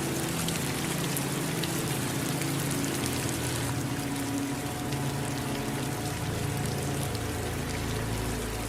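Steady rain falling, with scattered drop ticks over an even hiss, mixed with running water. Low held tones hum underneath and shift slowly.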